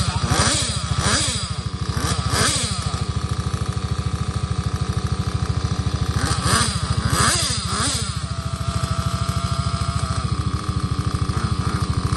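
Nitro-engined 1/8-scale RC cars running, their small glow engines rising and falling sharply in pitch several times as they rev and pass, over a steady, fast low pulsing.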